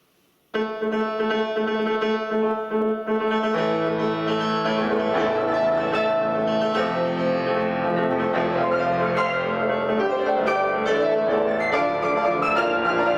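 Piano trio of piano, violin and cello playing, starting about half a second in, with a held low string note under the piano that fills out into fuller chords about three and a half seconds in.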